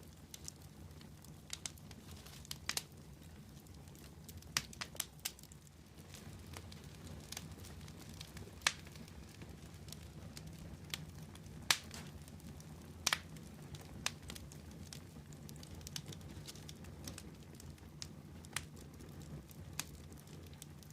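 Wood fire crackling, with irregular sharp pops and snaps, a few of them louder, over a steady low rumble.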